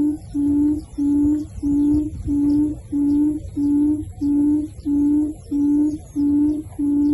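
A low hooting bird call repeated in an even, unbroken rhythm, nearly two notes a second, with faint high chirps of small birds above it.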